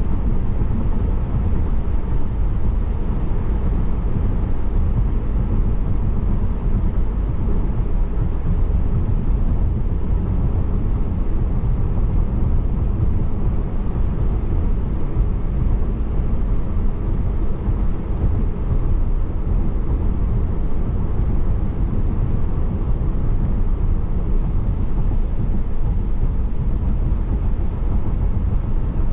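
Road and tyre noise of a car being driven: a steady low rumble.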